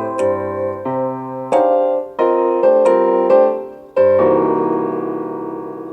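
Electronic keyboard playing piano-sound chords as an instrumental ending, with a final chord struck about four seconds in that rings out and fades away.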